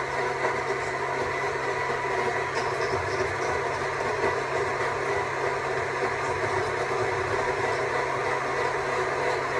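Stihl MSA 200 C battery chainsaw running steadily at a constant pitch, its electric motor and chain whining.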